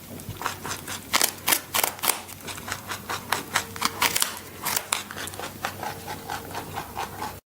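Rabbit chewing: a quick, uneven run of crisp crunching clicks.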